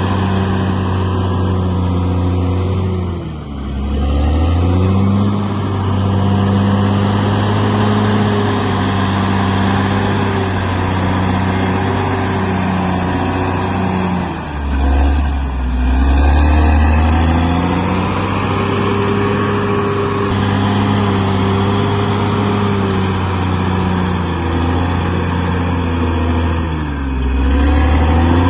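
Bulldozer's diesel engine running hard, its pitch dipping and coming back up three times: a few seconds in, about midway, and near the end.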